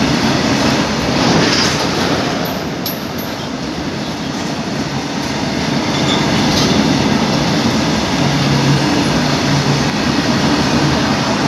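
Train running past on the rails: a loud, steady rumble of wheels and cars, with a few short high squeaks about three seconds in.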